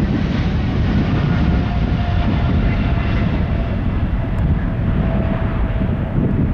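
Jet airliner's engines at takeoff thrust, a loud steady rumble with a faint held whine over it.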